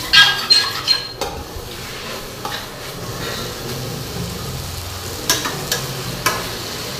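Chopped onions and tomatoes sizzling in a stainless steel kadai while being stirred, the tomatoes frying down in the oil. A utensil clinks sharply against the steel pan several times in the first second, ringing briefly, and knocks against it a few more times near the end.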